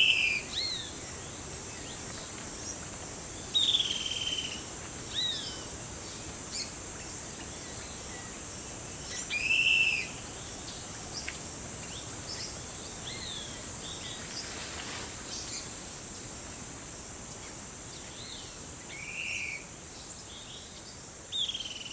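Forest birds calling, short arched whistled notes every few seconds, some louder and nearer than others, over a steady high-pitched insect drone.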